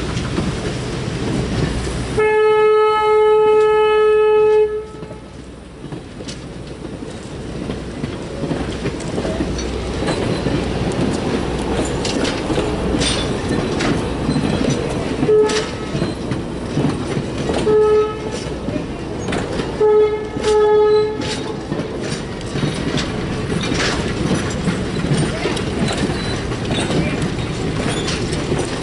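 A train rolls by with a steady rumble and rail clicks while its locomotive horn sounds one long single-pitched blast, followed later by a few short toots, the last two close together.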